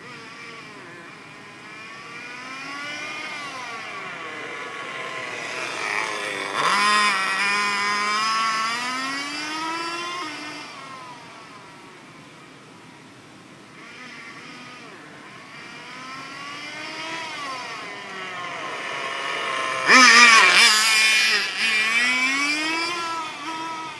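Engine-powered radio-controlled car running laps, its high engine whine rising and falling in pitch as it revs. It comes close and goes away twice, loudest about seven seconds in and again about twenty seconds in.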